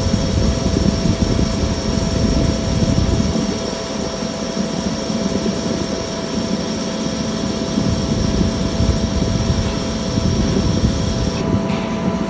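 CNC lathe running as it turns a long pin: a steady machine hum with high whining tones. The low rumble eases for several seconds in the middle and comes back near the end.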